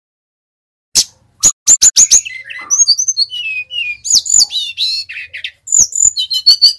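Sikatan rimba dada coklat (brown-chested jungle flycatcher) singing an energetic, varied song of sharp chips, slurred whistled notes and quick trills. It begins about a second in, after a short silence.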